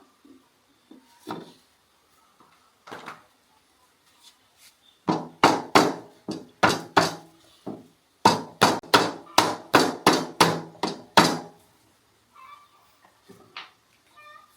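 Rapid repeated hammer blows, about four a second, in two runs with a short pause between them, after a few scattered single knocks.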